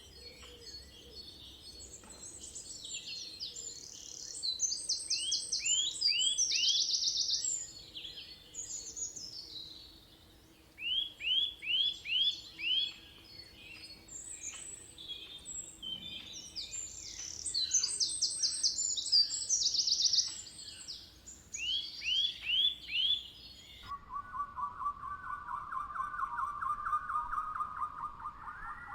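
Several birds singing and chirping together: a repeated call of four or five quick down-slurred notes, mixed with fast high trills and scattered chirps. About 24 seconds in, the sound cuts to a lower, warbling trilled call.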